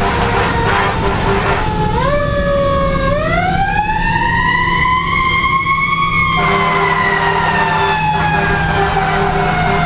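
Fire engine siren wailing while responding. Its pitch climbs over a few seconds, then falls slowly, and begins climbing again near the end, over the steady drone of the truck's engine.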